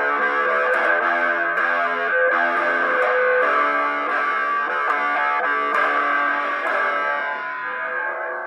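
Guitar music: plucked chords changing in a steady rhythm, getting quieter near the end.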